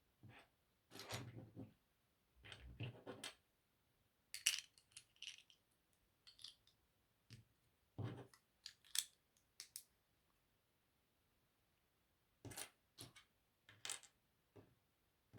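LEGO plastic pieces being handled and snapped together: irregular clusters of small clicks and light clattering, with short quiet gaps between them.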